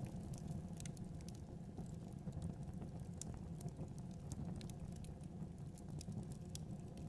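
Wood fire crackling: many small irregular pops and snaps, several a second, over a steady low rumble of the burning fire.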